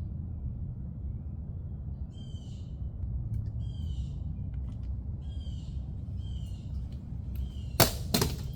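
A bird giving short repeated calls, roughly one a second, over a steady low rumble. Two sharp knocks near the end are the loudest sounds.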